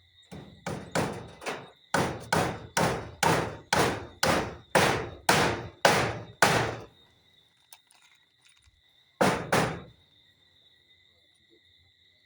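A hammer driving a nail with about a dozen steady blows, roughly two a second, then two more quick blows a couple of seconds later. Crickets chirr steadily in the background.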